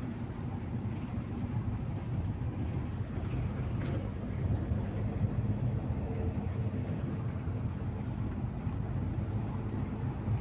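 Inside a MAZ-215 articulated city bus under way: a steady engine hum over road rumble, with a faint click about four seconds in.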